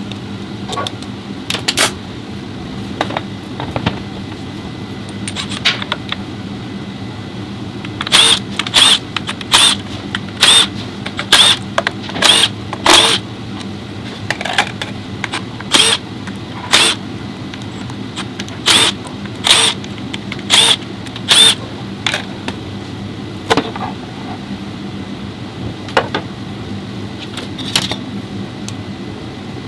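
A run of sharp metallic clicks and clanks, each with a brief ring, about one a second through the middle, over a steady mechanical hum.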